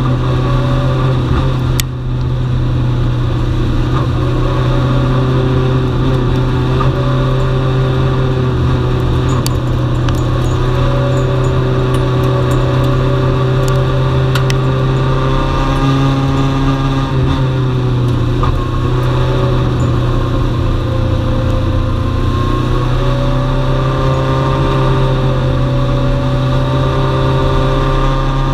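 Dwarf race car's engine running hard at steady high revs, heard from on board the car. Its pitch rises and falls a little throughout, with a brief dip in loudness about two seconds in.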